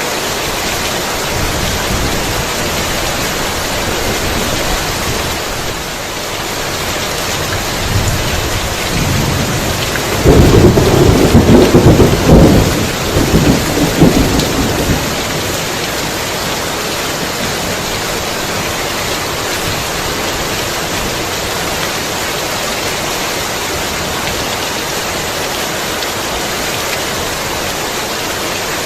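Heavy rain falling steadily. A thunder roll builds about eight seconds in and crashes loudest from about ten to fifteen seconds in, with several rumbling peaks, then fades back under the rain.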